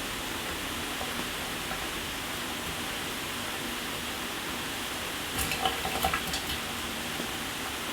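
Shower running, giving a steady hiss of falling water spray. About five and a half seconds in there is a brief cluster of louder splatters.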